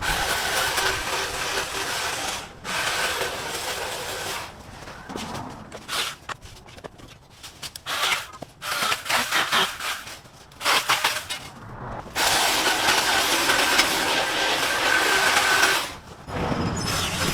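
A handheld motorized garden power tool running in spells of a few seconds, with short bursts and clicks between them in the middle.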